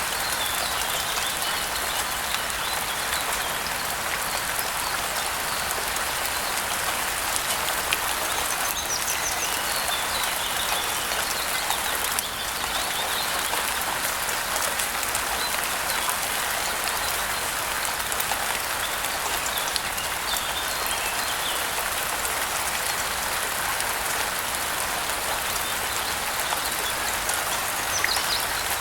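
Steady rain pattering, with scattered drips, and birds chirping now and then above it.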